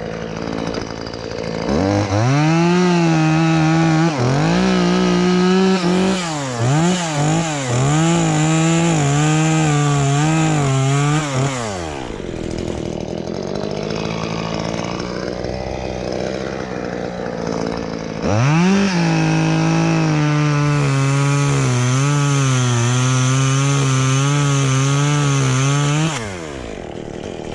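Chainsaw revving up and cutting into a limb twice, about two seconds in and again about eighteen seconds in, its pitch wavering under load. Between the cuts and near the end it drops back to idle.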